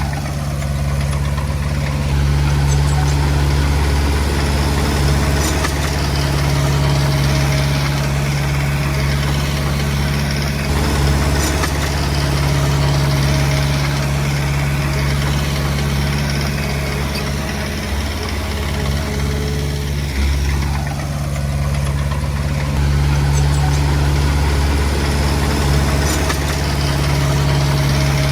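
Heavy diesel engine of earthmoving equipment running steadily, its level swelling and easing slightly every few seconds.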